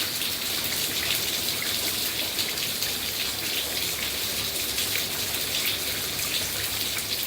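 Heavy rain pouring down, a steady hiss with many small drops pattering close by.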